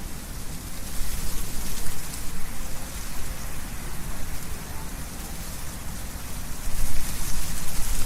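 Wind blowing through trees, the leaves rustling in a steady hiss with a low rumble, swelling in gusts about a second in and again near the end.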